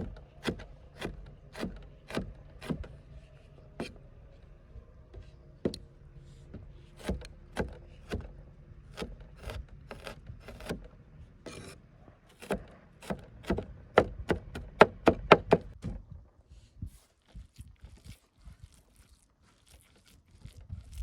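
Repeated sharp chopping strikes on wood, about two a second at first, then sparser. A faster, louder run of chops comes in the second half, then they stop.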